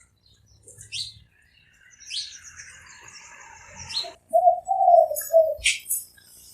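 Spotted dove cooing, a short phrase of three low notes a little past the middle, with smaller birds chirping high and briefly around it.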